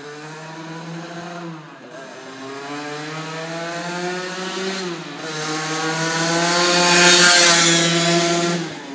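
CPI Supermoto's two-stroke engine, fitted with an 80cc Polini cylinder kit and a Yasuni R2 expansion exhaust, accelerating hard through the gears. The pitch climbs and drops back at each shift, twice, and the engine gets louder as the bike approaches, loudest as it passes close by near the end.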